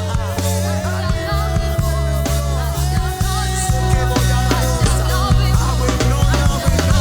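Live worship band playing: sustained bass and keyboard chords, a held melody line and steady drum hits between sung phrases.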